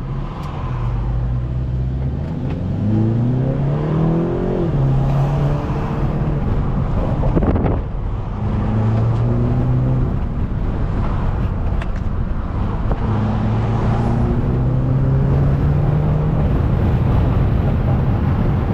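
Stage 2–tuned BMW 330i's turbocharged four-cylinder engine accelerating hard. The engine note climbs through the revs and drops back at each of several upshifts.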